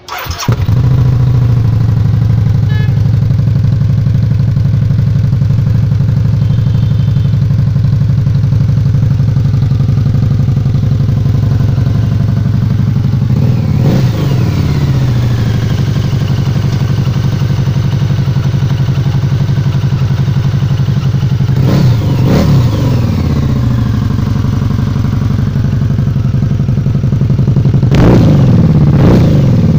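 Harley-Davidson Night Rod's V-twin running at a steady loud idle through its twin exhausts. It is revved in short blips about halfway through, again past two-thirds, and twice near the end.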